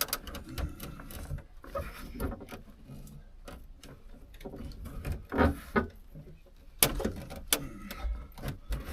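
Irregular clicks, small knocks and rustling of plastic interior trim and the old headliner being pried and handled in a pickup cab, with a couple of sharper snaps near the end.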